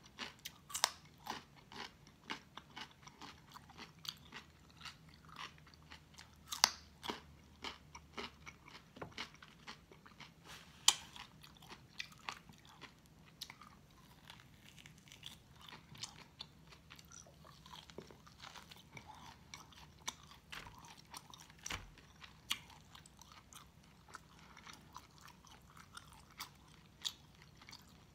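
Close-up eating sounds: crisp crunching bites of raw cucumber spears and wet chewing of baked pork loin, a run of short sharp crunches and mouth clicks at uneven intervals.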